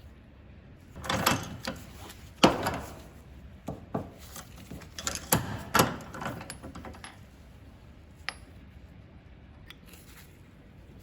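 Hand tools and metal parts clicking, knocking and scraping on a workbench as an angle grinder is worked on: a cluster of sharp taps and short scrapes over several seconds, loudest about two and a half seconds in, then a few faint ticks.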